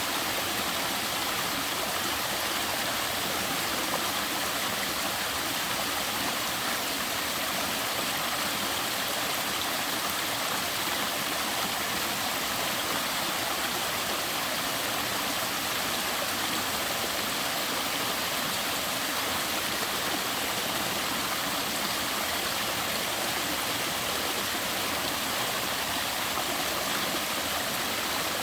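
Waterfall running at a fairly low flow: a steady, even rush of falling and splashing water.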